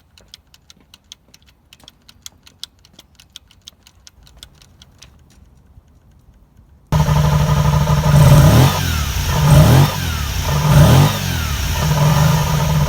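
Faint, irregular sharp clicks for several seconds, then the Kawasaki Eliminator 250V's V-twin engine cuts in loud, running and revved up and back down three times.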